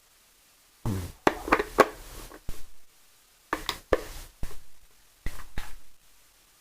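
Handling clicks and knocks of a plastic RC helicopter transmitter as its add-on helicopter carrier is slid into place and its small flip-over locking tab snaps into a carved detent. Sharp clicks come in a quick cluster from about a second in, then another run of separate knocks a little over halfway through.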